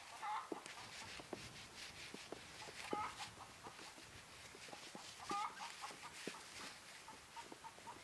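A bird calls briefly three times, short calls at a moderate pitch, over a scatter of light clicks and crackles.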